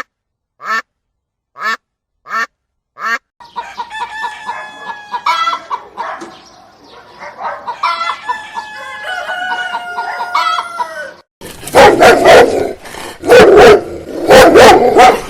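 Chickens calling: first a run of about five short, evenly spaced calls, then several birds clucking and calling over one another, with a rooster crowing. About eleven seconds in, a cut to a dog barking loudly and repeatedly.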